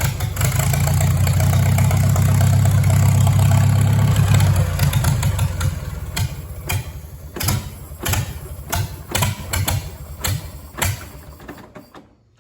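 Old Farmall tractor engine running strongly for a few seconds, then slowing and firing unevenly in separate pops before it stalls near the end. The engine has sat unused a long time and won't stay running.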